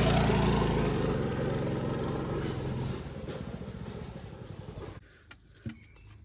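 Car engine running with a steady hum, fading away over about five seconds. It then cuts off suddenly to quiet, with one sharp knock near the end.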